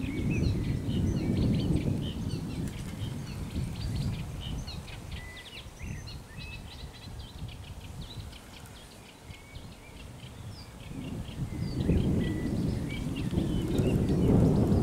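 Small birds chirping in many short calls, over a low rumbling noise that is strongest in the first few seconds and swells again near the end.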